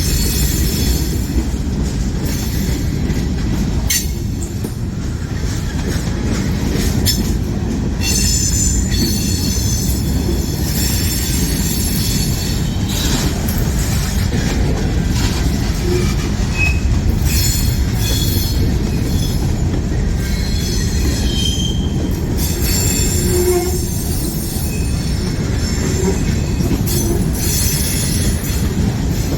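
Freight train cars rolling past with a steady heavy rumble. High-pitched wheel squeal comes and goes several times, and a few sharp clacks from the wheels crossing rail joints.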